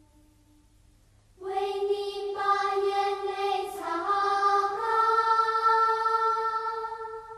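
Slow choral music: after a brief quiet, sustained voices come in about a second and a half in and hold long notes, moving to new pitches a few times before fading near the end.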